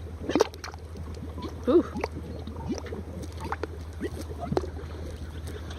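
Mud pot bubbling: thick mud gurgling with irregular gas-bubble plops, the loudest about half a second in and just under two seconds in.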